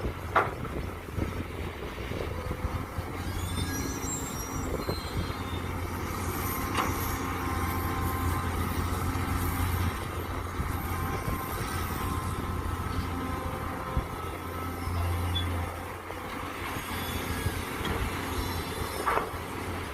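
Mini excavator's engine running steadily while it digs, with occasional sharp metallic knocks and a few high squeaks from the working arm and bucket.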